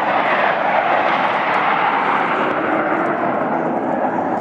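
Loud, steady jet engine noise from Blue Angels F/A-18 Hornets in flight.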